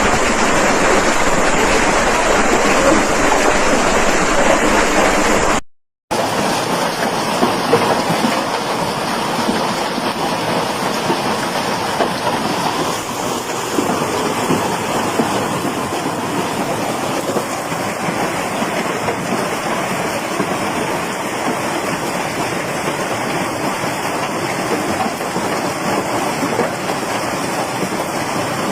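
Hailstorm: hail and heavy rain pelting down in a dense, steady roar, with a brief cut to silence about six seconds in.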